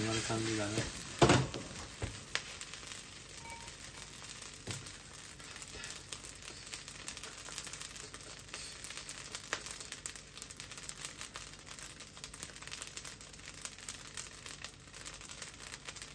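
Egg fried rice sizzling in a wok, crackling steadily as a wooden spatula turns and scrapes it, with a sharp knock about a second in.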